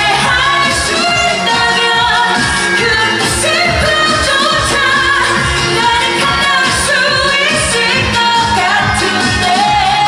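Woman singing a Korean pop song live over a backing band track with a steady beat.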